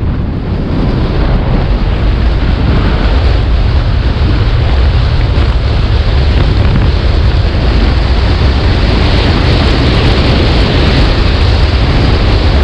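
Heavy wind buffeting the rider's microphone as an electric motorcycle accelerates hard. It is a steady rush with no engine note, building over the first second and then holding.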